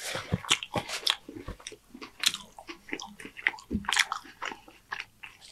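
Close-miked chewing of crunchy Doritos nachos: irregular crisp crackles and crunches with wet mouth sounds.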